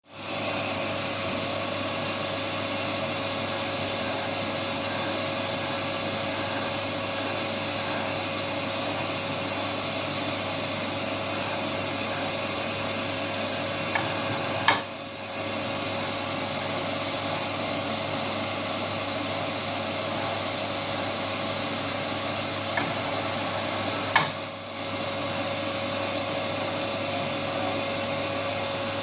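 Cutting plotter running steadily as it cuts magnet sheet, a constant machine noise with a high whine and a lower hum. Two sharp clicks come about 15 and 24 seconds in.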